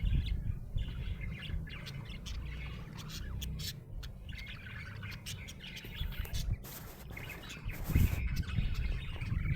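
Budgerigar chirping, a rapid run of short high chirps. Two brief rushes of noise break in about two-thirds of the way through.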